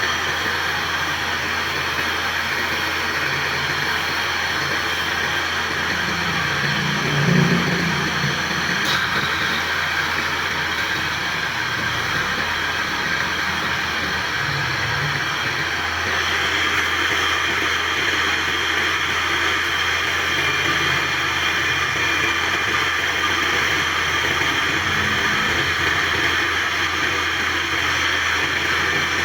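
Steady machine running noise with a constant low hum and a hiss, with a brief louder thump about seven seconds in.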